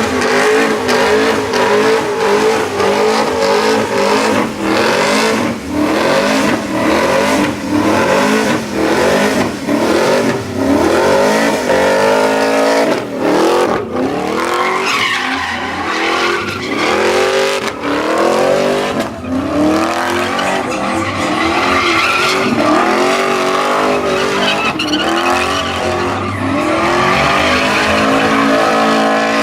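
Truck engine revved hard over and over, its pitch climbing and dropping again in repeated surges, over the steady screech and hiss of spinning tyres during burnouts and donuts.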